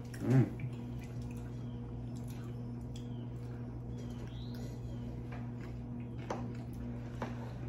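Close-miked eating sounds: chewing and soft mouth noises with a few light fork clicks, over a steady low hum. A brief voiced 'mm' comes just after the start.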